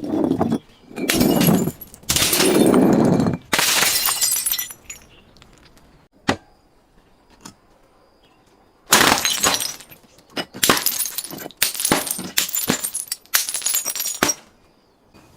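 Glass being broken and crushed: a run of loud shattering, crunching bursts, a quiet stretch of several seconds with two lone clicks, then another rapid run of breaking-glass bursts.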